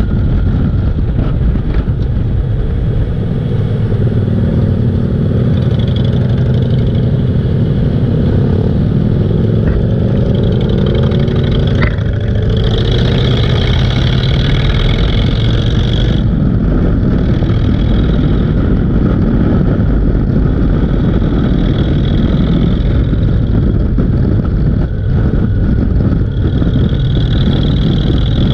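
Motorcycle engine running on the move under loud, steady road noise, with the engine pitch rising several times in the first half.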